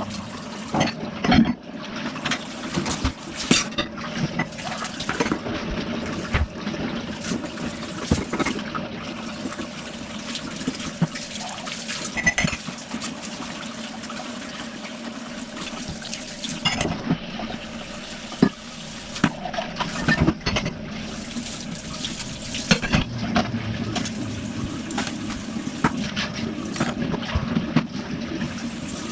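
Water running into a kitchen sink, with dishes and utensils clattering and knocking at irregular moments: washing up by hand.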